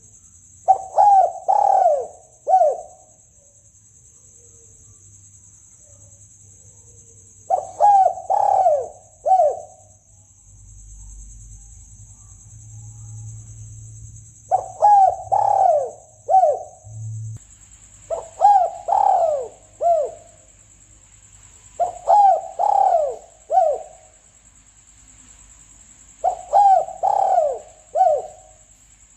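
Spotted dove (tekukur) cooing: six phrases, each a quick run of four or five coos about two seconds long, repeated every four to seven seconds. A steady high hiss lies underneath. This is a lure call for drawing in spotted doves.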